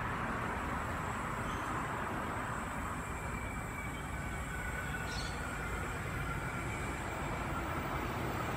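Sydney Trains Waratah electric train approaching in the distance: a steady low rumble, with faint thin whining tones coming in about halfway through.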